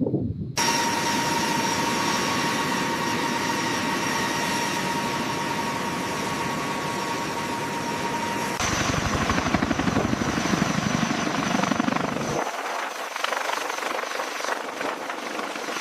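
Large helicopter's turbine engines running with a steady high whine. About eight and a half seconds in, the sound changes abruptly to the fast beating of the rotor, and a few seconds later the deep low end drops away.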